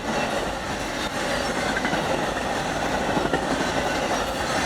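Amtrak Auto Train rolling past at speed: a steady rumble of wheels on the rails, with a few faint clicks.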